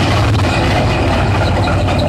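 Industrial wood pallet shredder running, a loud steady low hum under dense grinding noise with scattered short cracks.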